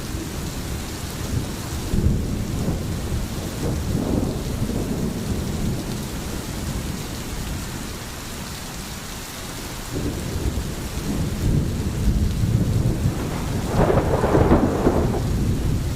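Steady rain with low rolling thunder that swells and fades several times, the loudest rumble coming near the end.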